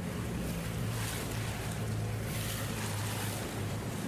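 A boat's engine running steadily under way, a low even hum, with washes of rushing water and wind noise swelling over it at times.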